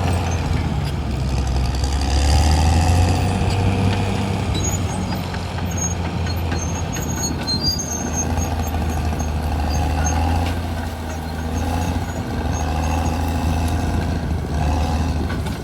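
CAT D6R XL crawler bulldozer's diesel engine running under load, its level swelling and easing, with faint high squeaks above the engine drone.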